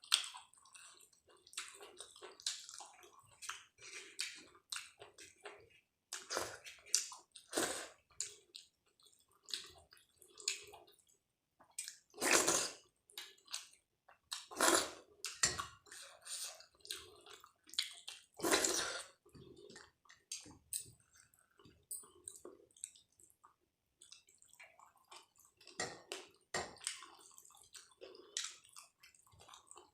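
Close-up wet eating sounds: soft, saucy dal and rice squishing and being chewed in irregular short bursts, with three louder bursts around the middle.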